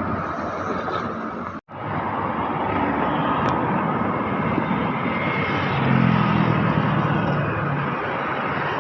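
Commuter Line electric train running by, a steady rumble of wheels and traction motors that cuts out briefly about one and a half seconds in and grows louder from about six seconds in.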